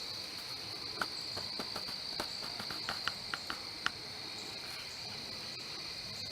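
Steady, high-pitched chorus of crickets, with a quick run of light clicks or taps between about one and four seconds in.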